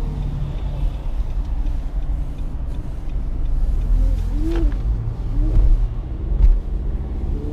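2017 Nissan Rogue, heard from inside the cabin: a steady low rumble of engine and road noise, with a couple of faint short squeaks in the middle.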